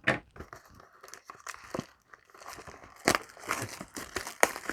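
Trading card packaging crinkling and tearing as a Yu-Gi-Oh! mini box and its booster packs are opened, in short irregular crackles with sharper ones at the start and about three seconds in.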